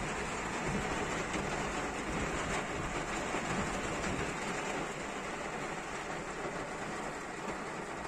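Steady rain falling, heard with a low vehicle rumble underneath that eases about five seconds in.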